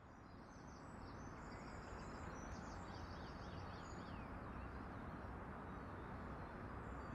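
Steady ambient rush of low, even noise with small birds chirping and trilling high above it, busiest in the first half, including a quick run of about five falling chirps.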